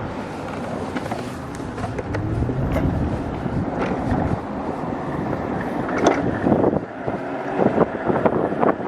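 Wind rushing over the microphone while riding an e-bike, with road and tyre noise underneath; it gets gustier, with crackling buffets, in the second half.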